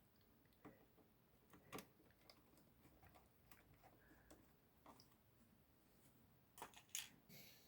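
Faint, scattered clicks and taps of a screwdriver and small screws as a case is screwed back together, with a cluster of louder clicks near the end.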